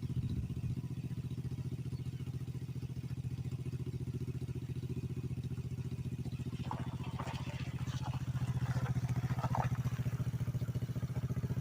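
Pit bike's small single-cylinder engine running steadily at low revs, with an even pulse; it gets slightly louder about two-thirds of the way through.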